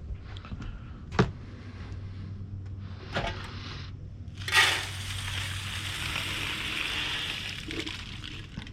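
Two sharp knocks, then bird seed pouring into a bird feeder as a steady rush lasting about three and a half seconds.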